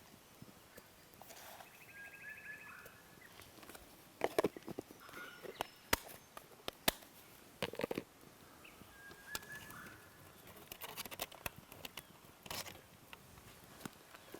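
Scattered light clicks and knocks, a few sharper ones in the middle, with a couple of short bird calls about two seconds in and again after nine seconds.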